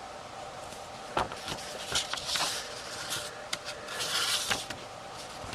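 Pages of a paper picture book being handled and turned: a few light taps and two papery swishes, over a faint steady hum.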